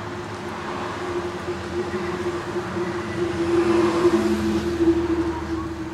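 A motor vehicle's engine running, a steady hum at one constant pitch that grows louder about three seconds in and eases off again near the end.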